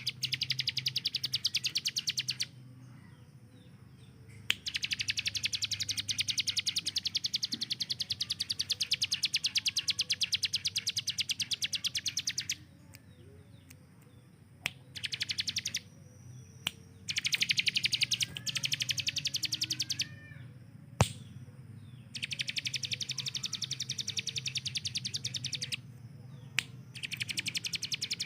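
Ciblek gunung singing its rapid-fire 'tembakan' song: long bouts of very fast, evenly pulsed high-pitched trills, each running several seconds, separated by short pauses with softer chirps. One sharp click a little after twenty seconds in.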